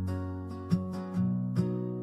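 Acoustic guitar strumming chords in a slow song intro, a new strum roughly every three-quarters of a second, each ringing on.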